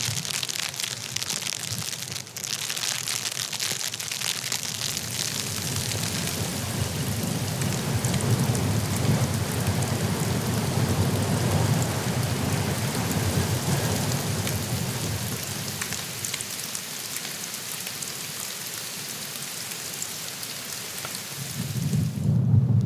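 Blizzard noise: a steady dense hiss with a low rumble underneath. Near the end the hiss cuts off suddenly and the low rumble grows louder.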